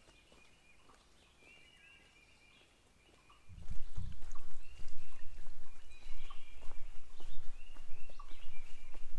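Songbirds chirping in the woods, the same short high phrases repeated over and over. About three and a half seconds in, a loud, uneven low rumble comes in on the microphone and stays, with the birdsong still audible above it.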